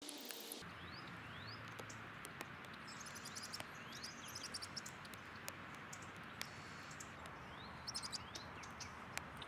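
Small birds chirping over a steady outdoor hiss: many short rising chirps and scattered ticks, with a quick burst of high twittering about eight seconds in.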